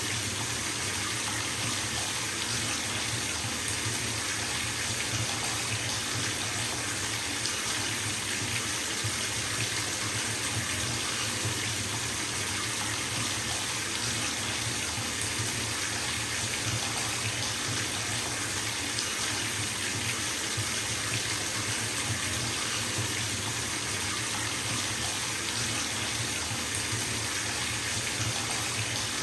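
Bathtub filling from its tap: a steady, unbroken rush of water pouring into the tub.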